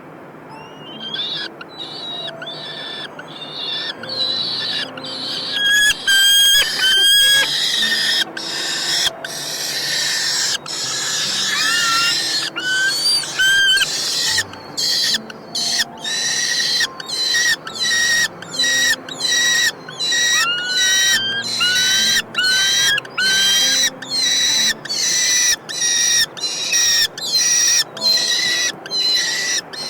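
Falcon chicks in the nest calling over and over: harsh screeching calls at about one a second, with short rising whistled notes mixed in. These are begging calls at feeding.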